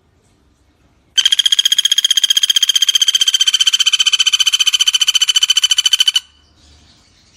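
Common flameback woodpecker (pelatuk bawang) giving one long, fast rattling trill, starting about a second in and lasting about five seconds, at an even pitch, then cutting off abruptly.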